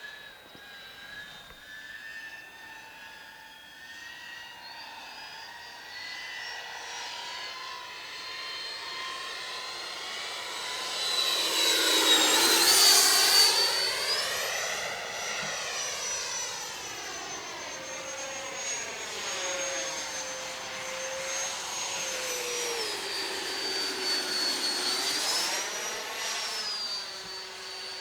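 Freewing J-10's 90 mm electric ducted fan whining as the RC jet flies past, loudest about twelve seconds in as it passes close, with a second, softer pass near the end. The fan's pitch rises and falls with the throttle.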